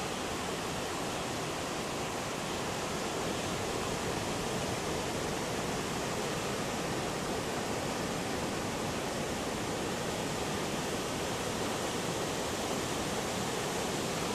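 Steady roar of heavy surf from a big pre-typhoon swell, an even rushing noise with no single wave crash standing out.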